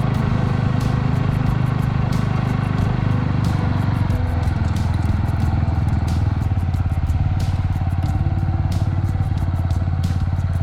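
Yamaha Grass Tracker's single-cylinder engine running steadily while the motorcycle is ridden, its note dropping lower about four seconds in as the bike slows.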